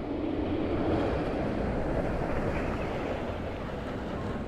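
A Fast & Furious Hollywood Drift steel coaster train running along its track: a rushing roar that swells about a second in and slowly fades.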